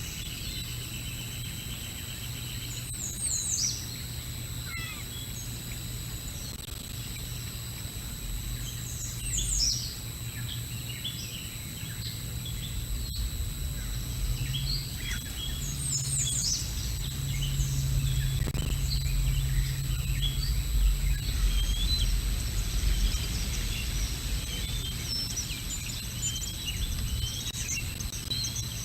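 Many birds chirping and calling outdoors, short chirps and down-slurred calls coming thicker in the second half, over a steady low rumble and a faint high electronic whine from the camera microphone.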